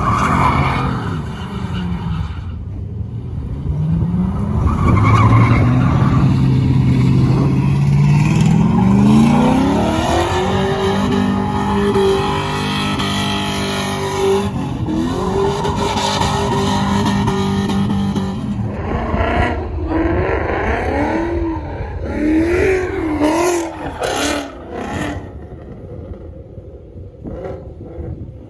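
A truck engine revving: its pitch climbs steadily for several seconds, is held at high revs with one brief dip, then is blipped up and down several times before it drops back and quietens near the end.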